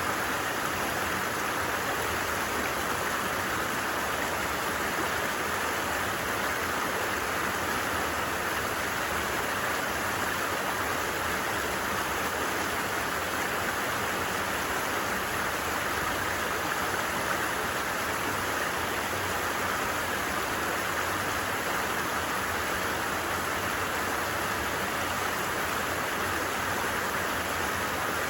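A stream running steadily, an even unbroken rush of water.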